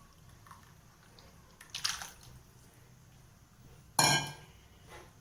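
Water splashing into a pan of ground masala, followed about four seconds in by a sharp clank of a metal vessel being knocked, which rings briefly.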